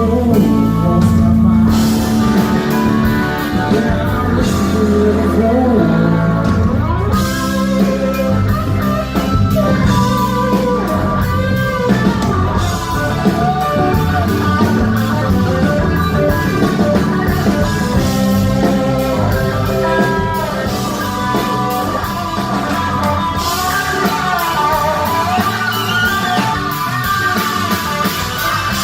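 Blues-rock band playing live: electric guitar lines, some bending in pitch, over bass and drums.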